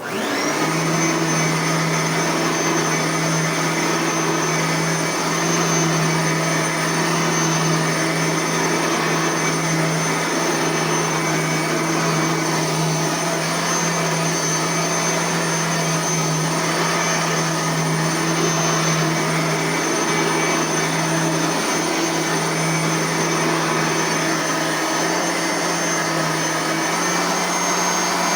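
Bissell Power Partner 1000 vacuum cleaner switched on: its motor spins up in the first moment, then runs steadily with a high whine over a low hum.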